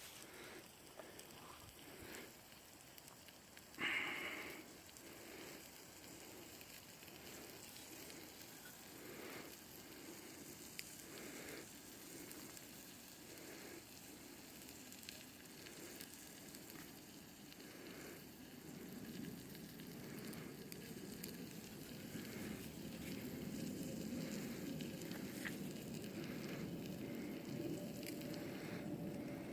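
Fire crackling and sizzling, with scattered sharp pops and a louder one about four seconds in; a steadier, louder sizzle builds over the last third.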